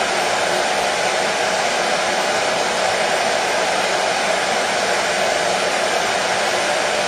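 Electric hair dryer running steadily: a constant, even rushing whir with no change in speed, used as white noise to soothe a colicky baby.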